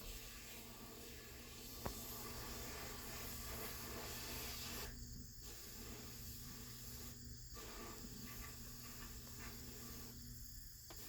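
Faint steady hiss over a low hum, with one light click about two seconds in.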